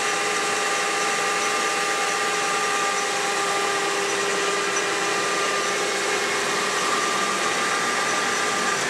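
Leblond heavy-duty toolroom lathe running at its top spindle speed of 1200 RPM: a steady gear whine of several even tones over a hiss. Part of the noise the operator puts down to a ring that is just making a little noise.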